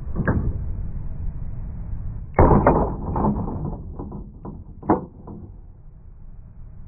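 An RC short course truck dropped onto cement: a knock near the start, then a loud impact about two and a half seconds in followed by several smaller knocks that fade out as it bounces and settles on its suspension.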